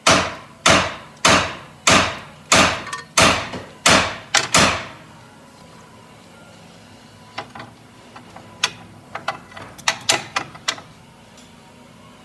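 A series of about nine heavy knocks, evenly spaced and each ringing briefly, then a few lighter scattered clicks after a pause.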